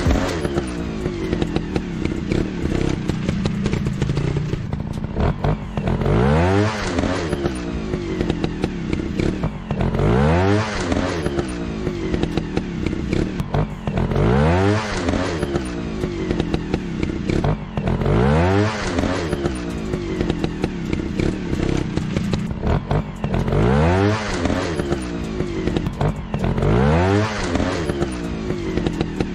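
Motorcycle engine revving up again and again, its pitch sweeping upward about every four seconds over a steady running drone.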